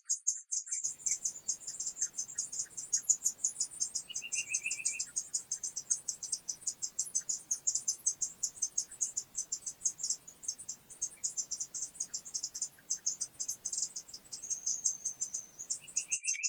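Crickets chirping in a rapid, even train of high-pitched pulses. A short, lower trill comes in about four seconds in.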